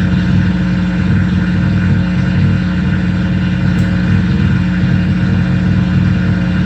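Loud, steady droning noise from a mixer feedback rig run through reverb and tape: a strong low hum with a rapid flutter in the bass beneath it.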